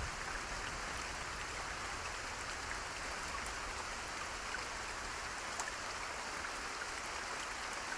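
Steady rain: an even hiss of falling rain with a few faint drop ticks, and possibly rushing water beneath it.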